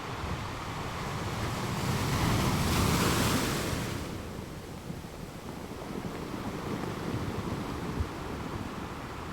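Sea waves: one wave swells and breaks about two to three seconds in, then fades into a steadier, quieter wash of surf.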